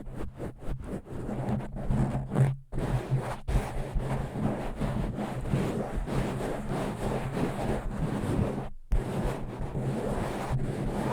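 Close-miked ASMR trigger sounds: a run of quick taps at first, then a continuous scratchy rubbing noise, cut off twice for a moment, about two and a half and nine seconds in.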